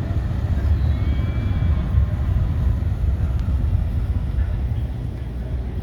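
Toronto Island ferry's engines running with a steady low rumble as the ferry comes in to dock.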